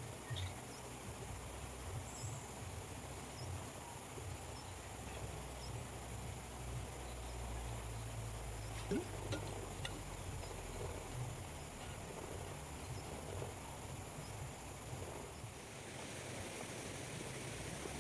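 Insects, crickets, chirring in a steady high drone over a low rumble, with a few small clicks about nine seconds in. The high drone thins out near the end.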